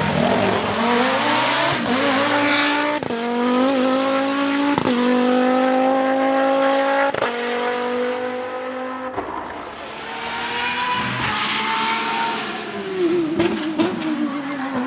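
Nissan 370Z's 3.7-litre V6 pulling hard, its pitch climbing through the gears with short breaks at the shifts near 3, 5 and 7 seconds in. It lets off around 9 seconds, climbs again, then drops in pitch as it slows, with a few sharp cracks near the end.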